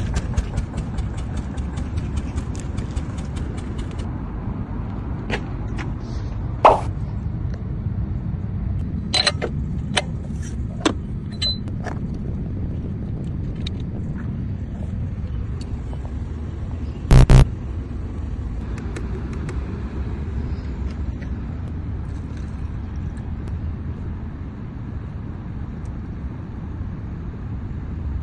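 Car engine idling with a steady low rumble. There is a rapid, even ticking for the first few seconds, then scattered clicks and knocks, and one loud short clatter about 17 seconds in.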